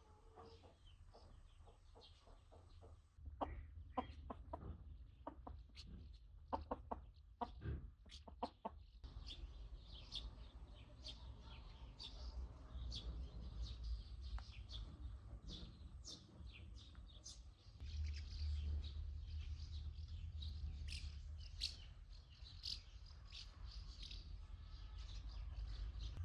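Birds chirping over a low rumble, with many short high chirps through the second half. A few seconds in comes a run of sharp clicks or knocks lasting several seconds.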